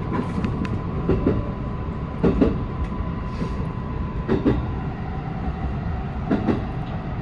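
223-series electric train running on the line, heard from inside the train: a steady running noise with a faint steady whine, and short clacks of the wheels over rail joints every second or two.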